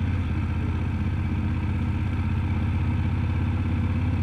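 Motorcycle engine running steadily at low revs, its firing pulses giving an even low hum.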